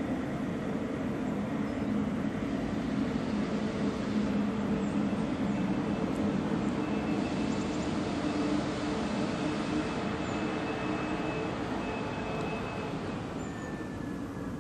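Electric locomotive of a double-deck regional train moving slowly out of the station stop toward the listener, giving a steady electric hum over the running noise of the train. A thin high whine joins in around the middle.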